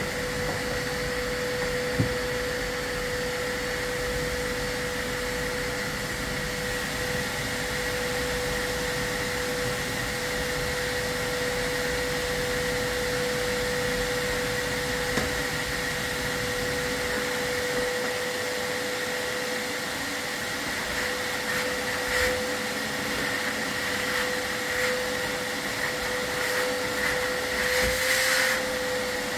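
A vacuum running steadily with a constant whine. A few brief knocks and scrapes sound over it, gathering near the end.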